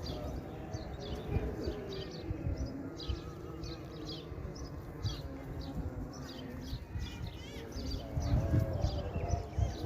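Young puppies squeaking and whimpering in short, repeated high-pitched cries, over low bumping and rustling.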